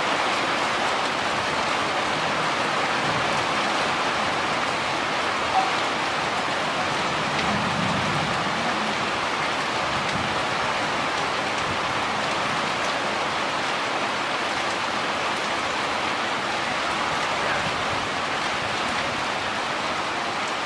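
Steady rain falling, an even hiss that the listener likened to something frying on a stove. A brief sharp sound stands out about five and a half seconds in.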